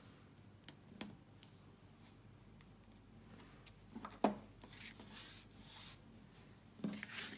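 Small handling sounds of card-making on a desk: a light tap about a second in, a sharper knock around four seconds in, then soft rustling of paper and card.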